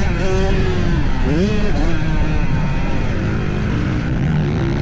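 Motocross dirt bike engine on the throttle, its pitch rising and falling about a second in and then holding steadier, over a dense low rumble.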